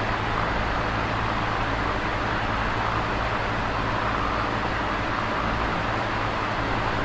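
Electric fan running steadily: a constant rush of moving air with a low, even motor hum underneath.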